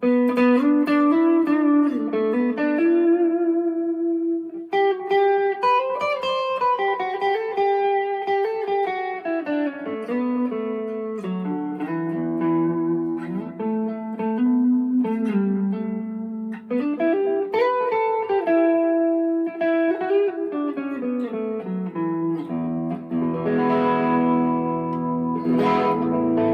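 Electric guitar played through a lightly overdriven amp on a coil-split neck humbucker: ringing chords and moving note lines, with harder strummed chords near the end.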